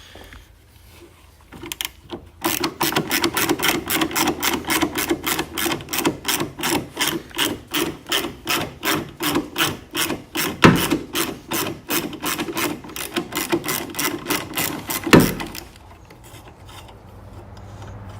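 A hand ratchet wrench loosening engine-bay bolts, about four or five quick clicking strokes a second for some thirteen seconds. Two sharper knocks stand out, one a little past the middle and one near the end, where the clicking stops.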